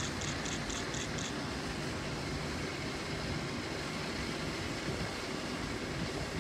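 Class 230 D-Train, a converted ex-London Underground D78 Stock unit, pulling away into the distance, heard as a steady rumbling noise. A quick run of six short high beeps sounds right at the start.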